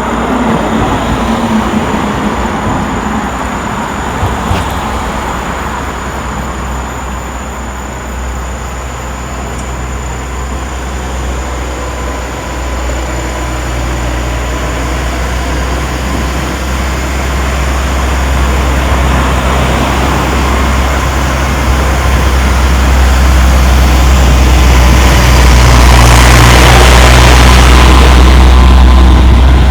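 Road traffic: a steady deep engine rumble, with a vehicle passing close and loud about three-quarters of the way through.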